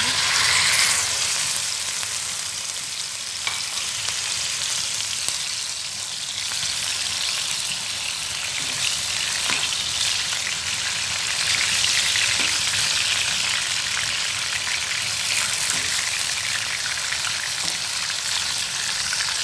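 Raw chicken pieces dropped into hot cooking oil in a frying pan, sizzling as soon as they hit the oil and then frying steadily, stirred now and then with a spatula.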